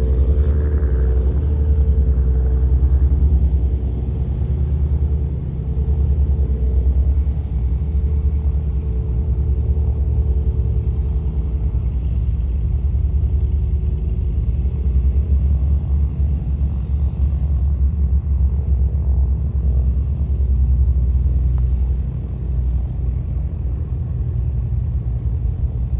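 Cessna 172S Skyhawk's four-cylinder Lycoming engine and propeller droning as the plane departs, its steady hum fading away about halfway through, over a heavy steady low rumble.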